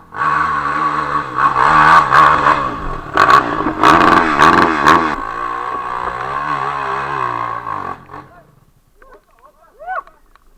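A 450 cc dirt bike's engine revving hard on a climb, its pitch rising and falling with the throttle. It is loudest between about two and five seconds in and dies away after about eight seconds.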